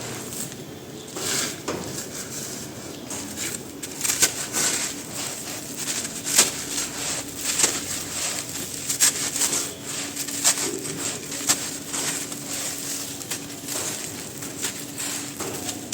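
Dry, crumbly black sand shapes being crushed and broken apart: a run of crisp crunches and crackles that grows denser from about four seconds in.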